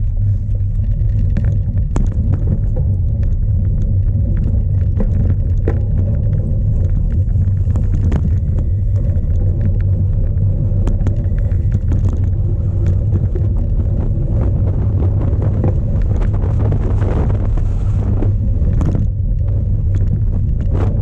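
Loud, steady low rumble of strong wind and riding noise on a cyclocross bike's onboard camera, with frequent clicks and rattles from the bike over rough ground.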